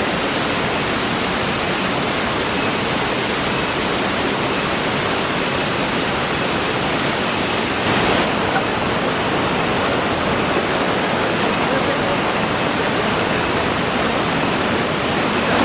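Loud, steady rush of a large waterfall's falling water.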